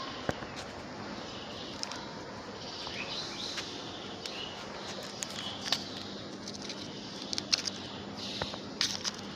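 Birds chirping and insects calling, with scattered sharp clicks and rustles; the loudest click comes about seven and a half seconds in.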